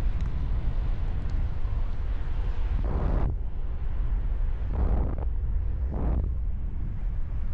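Wind rushing over the camera microphone during a paraglider flight: a steady low buffeting rumble, with stronger gusts swelling about three, five and six seconds in.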